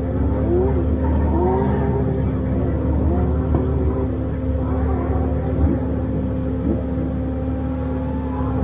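Nissan 200SX drift car's engine revving up and down, heard over the steady whine of FPV drone motors and a heavy low rumble.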